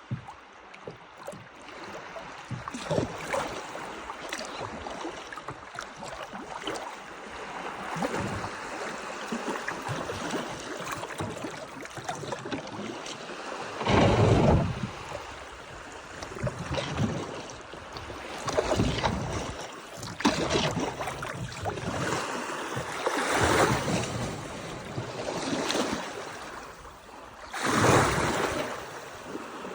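Water sloshing and lapping around a kayak in shallow lake water, swelling and fading every few seconds. Wind buffets the microphone, strongest in two gusts, one about halfway and one near the end.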